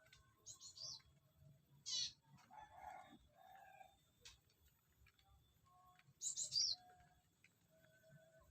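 Small aviary birds chirping faintly: short high chirps about half a second in, at two seconds and again around six seconds, with quieter lower calls in between.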